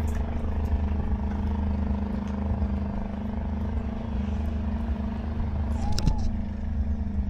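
Small motorbike engine running at a steady speed, with a short click about six seconds in.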